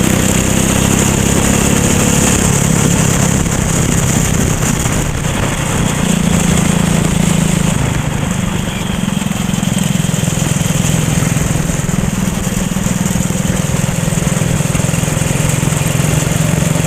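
Racing kart engine running steadily, its pitch dipping and recovering a couple of times, with a constant hiss over it.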